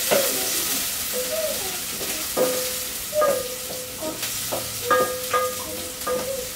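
Food sizzling as it fries in a metal pot, stirred with a wooden spoon, with a few knocks of the spoon against the pot. Soft background music with a held note plays underneath.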